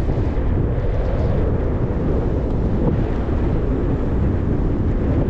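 Steady low wind rumble on the microphone of a moving bicycle, with no distinct events.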